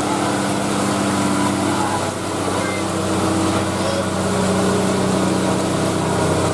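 A truck engine running steadily, a continuous low hum that holds about the same pitch throughout.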